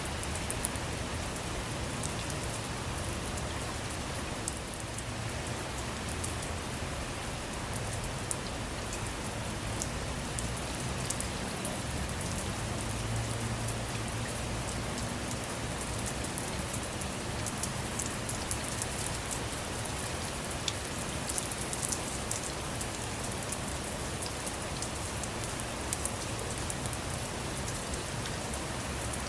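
Steady rain falling on a car, a constant hiss with many separate drops striking sharply throughout.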